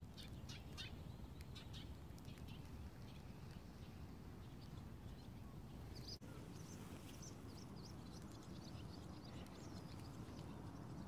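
Small birds chirping in short, high calls scattered through the field, over a steady low rumble of outdoor background noise.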